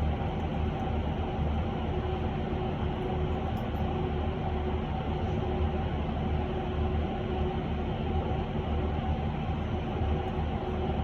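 Cabin noise inside an electric bus under way: a steady low rumble of road and tyre noise with a faint even hum over it.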